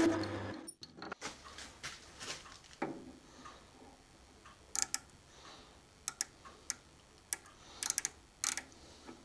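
Metal-turning lathe running, then shutting off about half a second in. After that come scattered light clicks and ticks, in small clusters, as the freshly turned diameter is measured.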